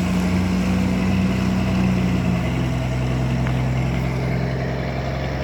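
Heavy diesel engine running with a steady low drone that steps down in pitch about two and a half seconds in.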